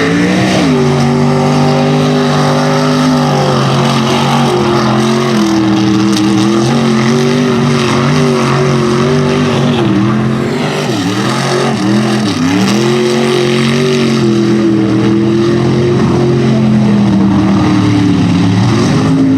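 Big-block V8 in a Ford Ranger mud truck running hard at high revs and held there, with the revs dropping and climbing back a couple of times around the middle and falling again near the end.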